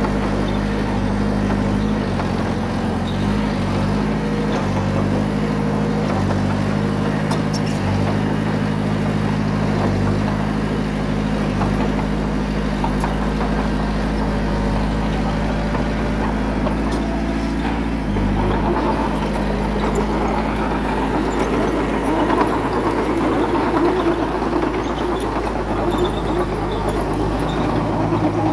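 Bulldozer's diesel engine running steadily under load, its pitch shifting a couple of times. Over the last third a rougher, louder noise joins in.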